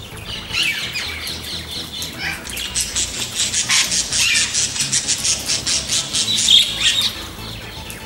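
Birds squawking, with a fast run of harsh chattering notes through the middle, about six or seven a second.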